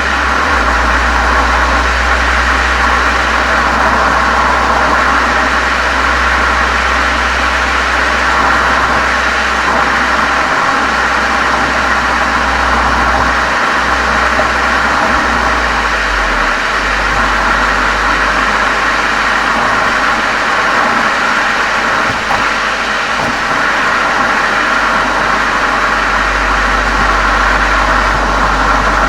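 Golf 7 GTI's turbocharged 2.0-litre four-cylinder running steadily through an aftermarket Cox muffler and chamber, heard from outside the car as a constant low exhaust drone with a slight shift in pitch a few times.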